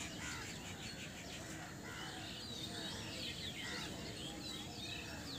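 Small birds chirping: many short, quick, high calls overlapping, over a low steady background noise.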